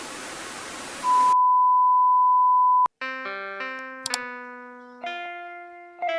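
A second of static hiss, then a steady test-tone beep that holds for about two seconds and cuts off with a click. After that, electronic keyboard notes and chords start playing.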